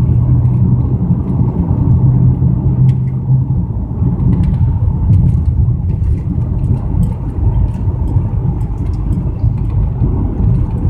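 BMW 335i straight-six engine running rough as a steady low drone, misfiring on cylinders 4 and 6, which the owners put down to the engine flooding those cylinders with fuel.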